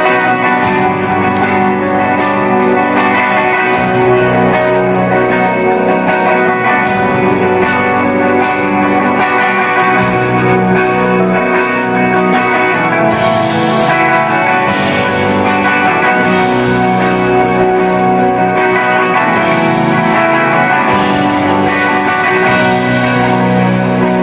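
Live rock band playing, with strummed guitars to the fore over a steady beat, recorded from the audience.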